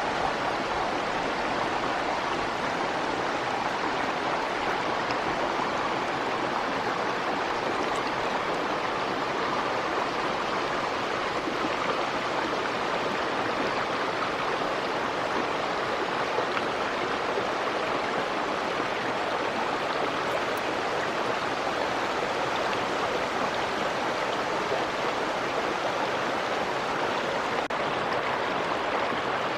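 A small stream flowing steadily, its water running in an even rush.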